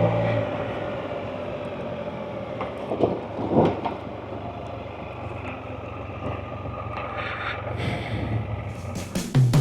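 Can-Am Spyder engine idling with a steady hum, which stops about half a second in as the ride ends. After that comes even outdoor background noise with a brief whoosh about three and a half seconds in.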